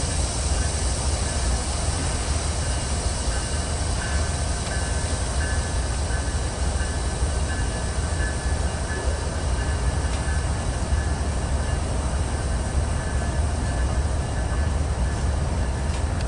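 Intermodal freight train's cars rolling past: a steady low rumble of wheels on rail, with a faint, on-and-off high wheel squeal from about four seconds in.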